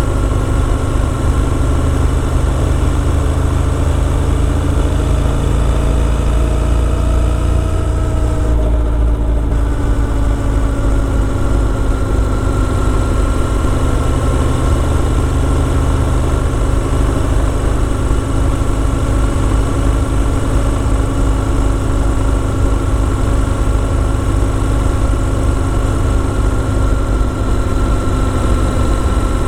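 Motorcycle engine running steadily under way, its pitch easing down a little about eight seconds in and then holding level.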